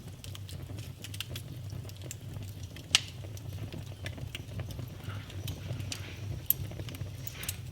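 Wood fire burning in a fireplace, crackling with irregular snaps and pops over a steady low rumble of the flames, with a sharp loud pop about three seconds in and another a little after six seconds.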